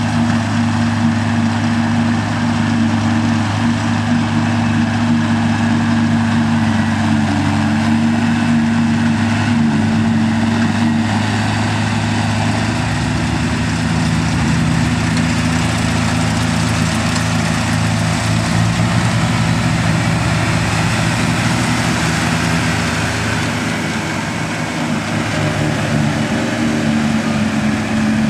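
Tractor engine running steadily during silage work, its note shifting about halfway through and the level dipping briefly near the end.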